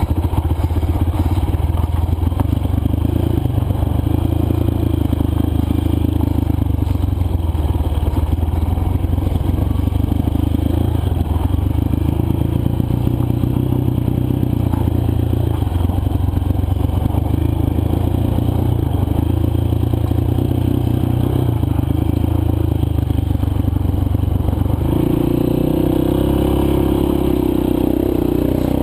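Single-cylinder dirt bike engine running while the bike is ridden over loose, dry trail, its note rising and falling with the throttle, with scraping and clattering from the ride. About 25 seconds in, the engine settles into a steadier note.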